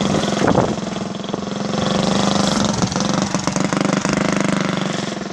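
Mini bike's small engine running at low speed as it is ridden, swelling a little about two seconds in and easing off near the end.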